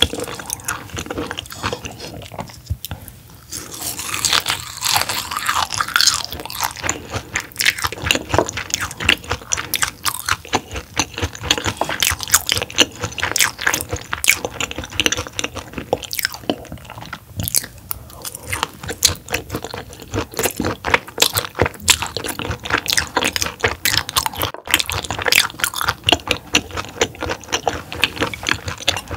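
Close-miked chewing of raw roughscale sole sashimi: dense, rapid crunching and wet clicking, with a brief lull about two to three seconds in.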